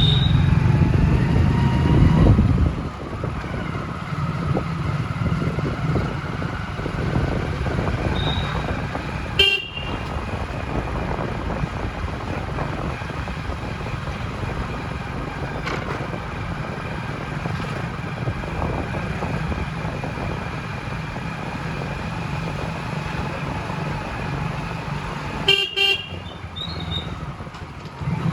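Steady engine and road noise of a vehicle driving in city traffic, louder for the first couple of seconds. Short horn toots cut through, about nine seconds in and again near the end.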